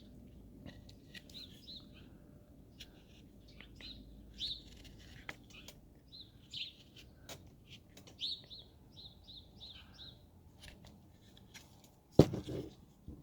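Small bird chirping again and again, some calls in quick runs, over light clicks and cuts of a carving knife in hard wood. A single loud knock near the end.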